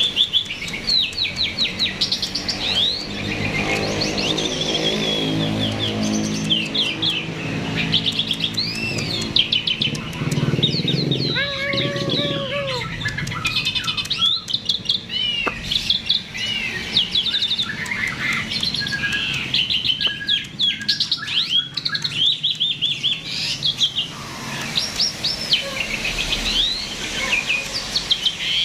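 A starling (jalak) in full song: a continuous run of fast chirps, whistles and rising and falling notes with hardly a pause. A low hum with even overtones runs beneath it through the first half.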